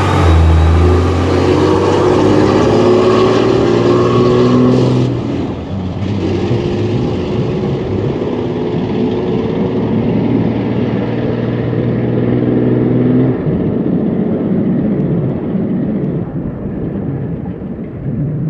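Motor vehicle engine running at a steady pitch, cutting off after about five seconds; a second steady engine note runs from about six to thirteen seconds. After that, a duller engine rumble fades away.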